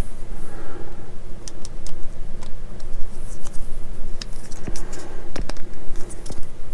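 Small plastic model-kit parts being handled and pressed into place, making scattered light clicks and taps over a steady low hum.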